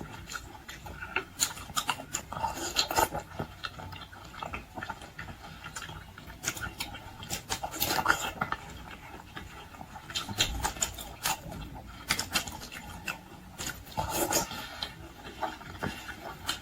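Close-up eating sounds: scattered clicks, taps and wet smacks of chewing, and of utensils on dishes.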